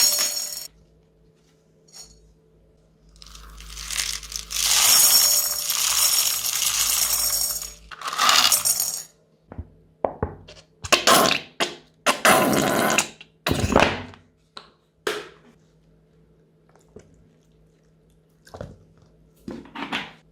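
Crunchy slime being squeezed and worked by hand, crackling and crunching in irregular bursts of one to three seconds with short pauses between, over a faint steady hum.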